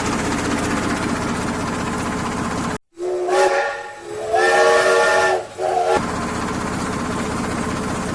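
Train whistle sounding a steady multi-note chord in three blasts, a long one, a longer one and a short one, between steady hissing running noise.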